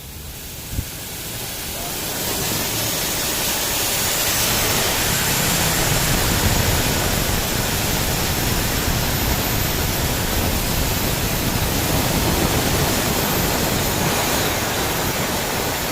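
An air-conditioning flushing machine blowing through a car's AC lines after a compressor change: a loud, steady rushing hiss that builds over the first few seconds and then holds, with a brief click near the start.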